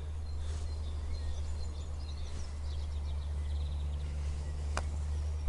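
A single sharp click near the end, a putter striking a golf ball, over a steady low rumble and birds chirping.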